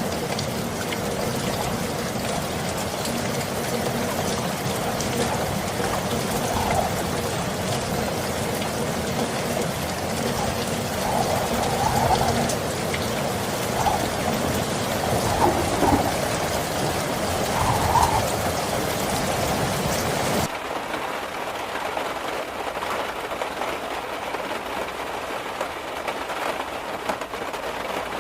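Heavy rain pouring in a windstorm: a dense, steady hiss, with a few brief louder surges in the middle. About two-thirds of the way through there is an abrupt change to a thinner, lighter hiss of rain.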